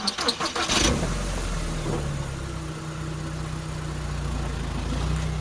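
A vehicle engine starting: a second of rattly cranking, then catching and settling into a steady idle.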